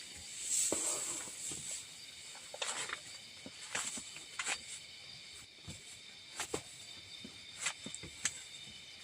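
Forest ambience: a steady high-pitched insect drone, with scattered clicks and knocks through it.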